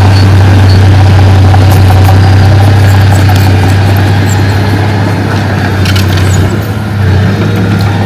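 Diesel engine of heavy earthmoving machinery running steadily with a loud, low hum, with scattered short clicks and clanks.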